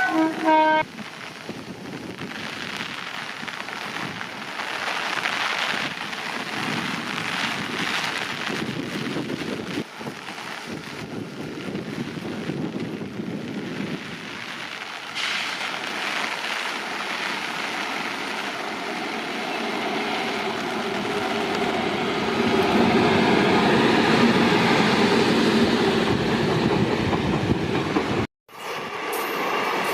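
Steady rain, with a train approaching and growing louder over the last third, a steady pitched hum rising over the noise of the rain. The sound drops out sharply for a moment near the end.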